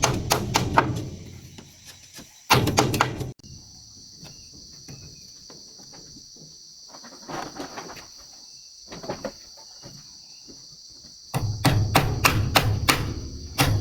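Rapid knocking strikes, about five a second, in short bursts at the start and again from about two-thirds of the way through, with a few scattered knocks between. A steady high-pitched buzz of insects runs underneath from a few seconds in.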